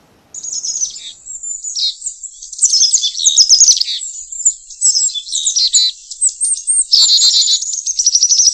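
Songbirds singing: a busy run of quick chirps, whistles and trills that starts suddenly just after the beginning.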